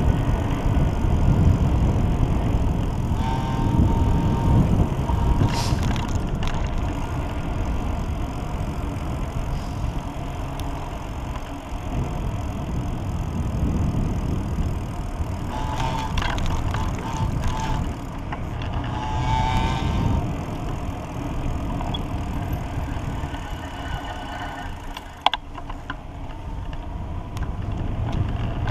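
Wind rumbling over the microphone and tyre noise from a pedal bicycle being ridden, with a few short high chirps now and then and a sharp click near the end.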